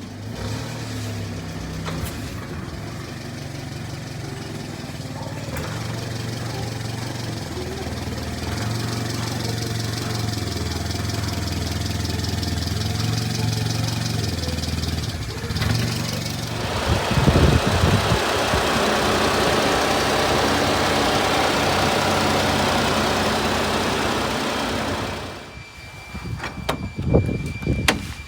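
1993 Honda Acty truck's small three-cylinder engine running steadily, slowly getting louder. About sixteen seconds in, a loud, even rushing noise takes over and cuts off sharply near the end, followed by a few knocks.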